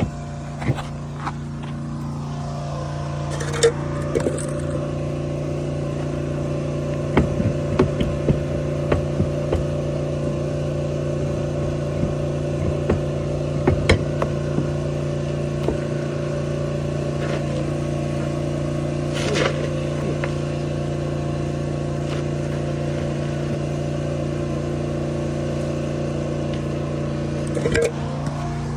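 Ford 7.3 L Powerstroke turbo-diesel V8 idling steadily, with scattered clicks and knocks of work going on around the truck.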